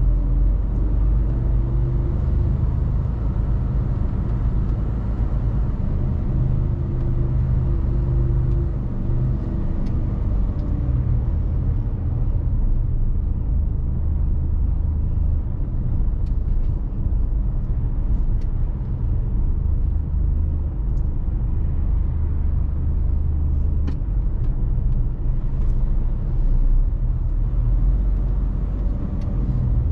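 Mercedes-Benz Actros truck's diesel engine running under way with a steady low rumble of engine and road noise; the engine note rises and eases off in the first several seconds, then it settles into an even rumble.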